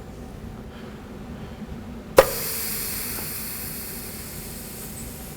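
Compressed-air blowgun air-checking the forward clutch in a 4L60E transmission's input drum: about two seconds in, a sharp knock and then a steady hiss of air for about three seconds. The clutch holds the air with no leakage.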